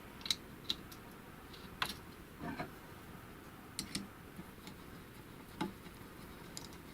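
Scattered light metallic clicks and small knocks, about eight at irregular intervals, from a screwdriver tightening the screw that holds the zigzag mechanism of a Chaika-2 sewing machine.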